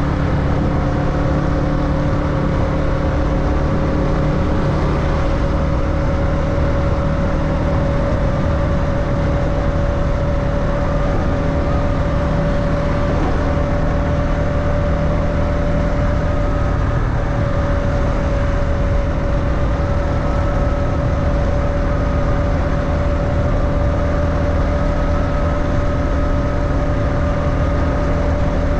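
Motorbike engine running at a steady cruise under a dense low rumble, its pitch creeping slowly upward.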